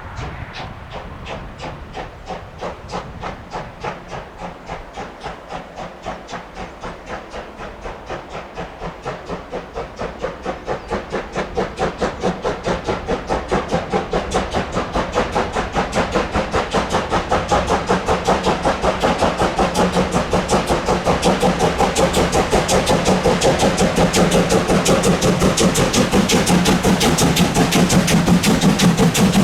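Sound decoder of a Roco BR 01 H0-scale steam locomotive model playing steam exhaust chuffs through its small speaker. The chuffs come steadily faster and louder as the locomotive gathers speed, and a steady low hum joins in about halfway.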